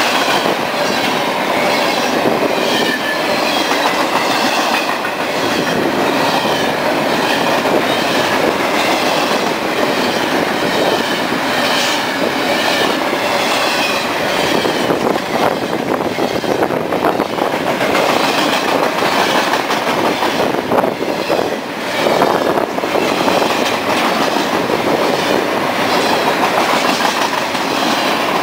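Freight cars of a passing train rolling by close up: a loud, steady rush of wheel-on-rail noise with faint repeated ticks as the wheels cross the rail joints.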